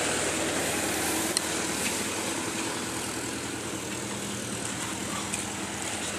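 Tractor engine running steadily, with a brief click about a second and a half in.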